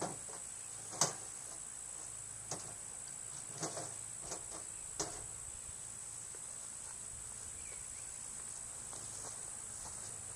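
A handful of light knocks and clicks from handling gear, the sharpest about a second in, the last about five seconds in. A steady high insect trill runs underneath.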